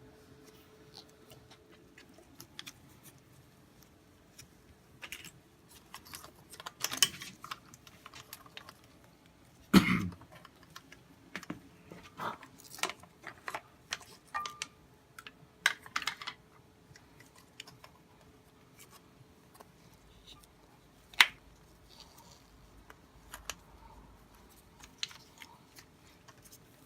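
Scattered small clicks, taps and rustles of hands working wires and small tools on a wiring harness, with a louder thump about ten seconds in and one sharp click about twenty-one seconds in.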